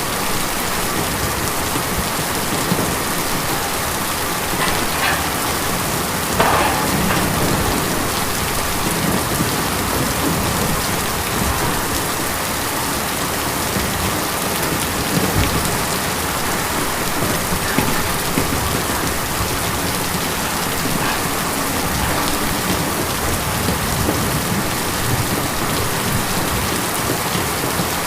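Steady rain drumming on a tin roof, with individual heavier drops striking now and then, one louder strike about six seconds in.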